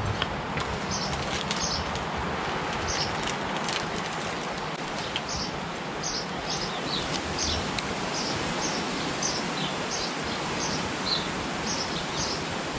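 Small birds chirping, short high calls about once or twice a second, over a steady outdoor hiss.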